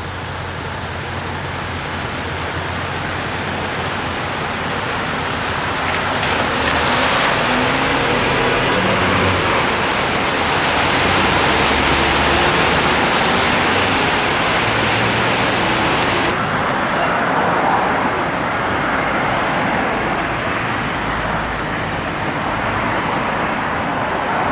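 City street traffic: a steady hiss of road noise with car engines passing, rising in pitch and fading, loudest around the middle. The high hiss changes abruptly about two-thirds through.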